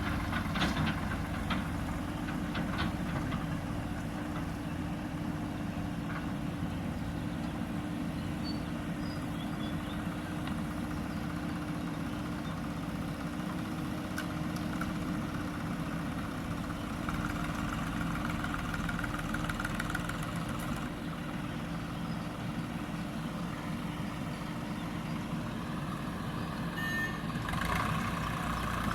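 JCB backhoe loader's diesel engine running steadily, with a few metallic knocks in the first few seconds.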